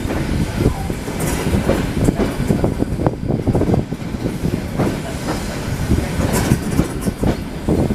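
ED9M electric multiple unit running along the line, a steady low rumble with the wheels knocking and clattering irregularly over rail joints.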